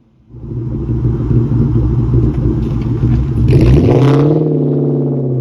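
Supercharged 4.6-litre V8 of a 2003 Mustang SVT Cobra through a loud Borla exhaust, accelerating hard under a pull with supercharger whine. It comes in suddenly about half a second in, surges with a sharp, harsher burst about three and a half seconds in, then settles to a steadier engine note that drops slightly in pitch.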